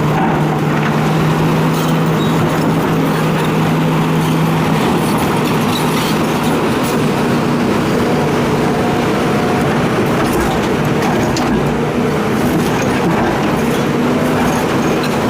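Hitachi excavator's diesel engine running steadily under load, with a few faint knocks.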